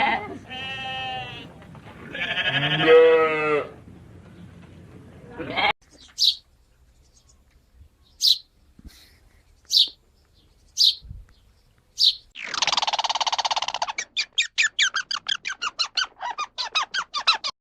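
A run of animal calls: two wavering bleats at the start, then a few short, high chirps spaced about a second apart, then a long call that breaks into a rapid pulsing chatter, about eight pulses a second, near the end.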